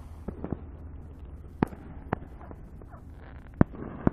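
Distant fireworks going off: a string of about six sharp, irregular bangs, the loudest about three and a half seconds in and followed by a short rolling echo.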